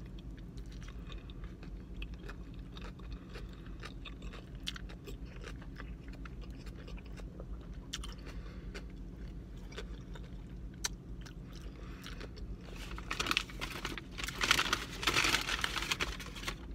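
Close-up chewing of a mouthful of Impossible Whopper burger: soft wet mouth clicks and smacks, louder and busier in the last few seconds, over a steady low hum.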